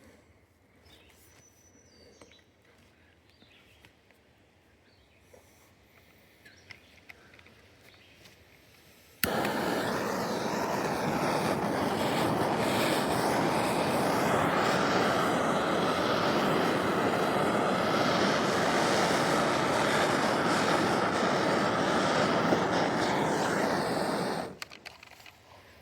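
Air rushing into an open maple sap vacuum line with a loud, steady hiss that starts suddenly about nine seconds in and cuts off abruptly some fifteen seconds later, as the line is opened and then closed. Faint clicks of handling come before it.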